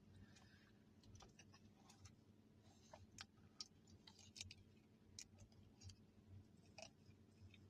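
Near silence: a low steady hum with faint, irregular small clicks scattered through it.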